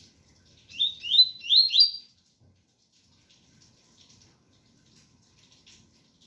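Double-collared seedeater (coleiro) singing a short phrase of the 'tui tui' song type: four quick whistled notes, each sliding upward, about a second in. Faint rain patters behind it.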